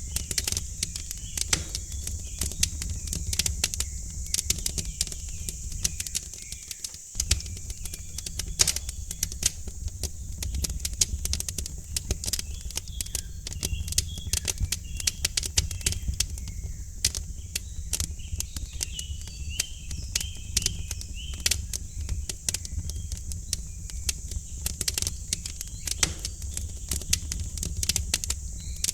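Wood fire crackling in a fireplace, with dense irregular pops and snaps over a low steady rumble. Small birds chirp faintly in the background, mostly around the middle.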